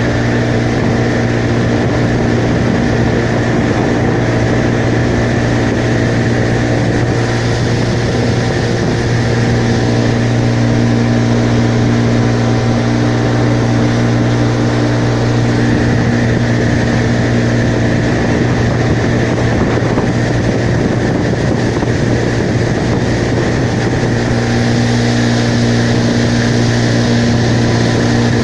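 Vehicle engine running steadily under way: a loud, unbroken drone with a strong low hum and steady higher tones.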